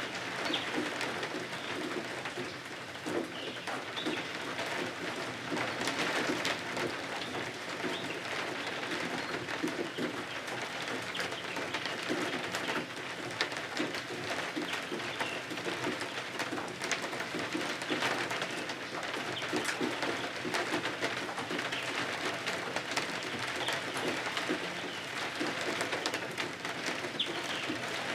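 Steady rain ambience with many small irregular ticks and crackles through it, like rain drops and a wood fire crackling.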